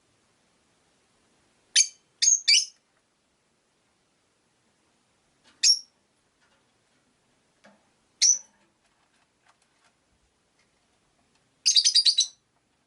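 Rosy-faced lovebirds giving short, shrill, high-pitched chirps: a quick group of three, two single calls a few seconds apart, then a rapid string of about six chirps near the end.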